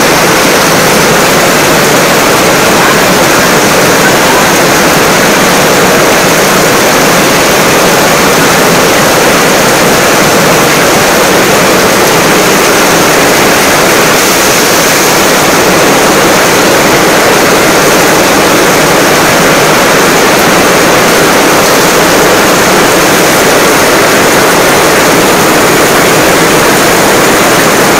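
Heavy rain pouring onto stone steps and paving, with water from a roof edge splashing down: a loud, steady hiss.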